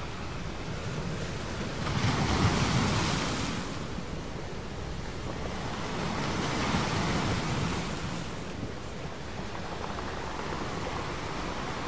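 Ocean waves washing in as a steady surf hiss, swelling louder about two seconds in and again around six seconds.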